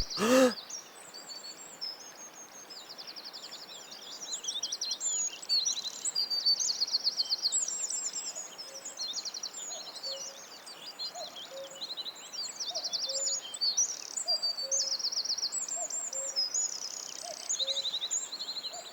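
Birdsong from several birds: rapid chirps and trills throughout, joined about halfway through by a soft low note repeating a little faster than once a second.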